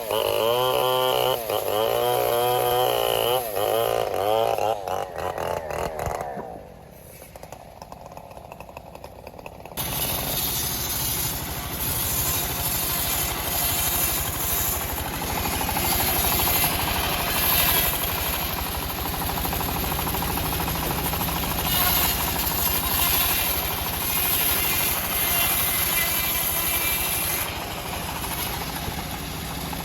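Engine-driven homemade bandsaw sawmill running, its engine note wavering in the first few seconds. It drops away briefly around seven to ten seconds in, then runs steadily again.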